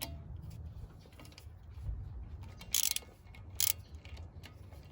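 Screwdriver working a Phillips rotor retaining screw on a Honda Civic's front brake rotor: quiet mechanical clicking and rubbing, with two short, sharp metallic noises about three seconds in. The screw turns easily, already loose.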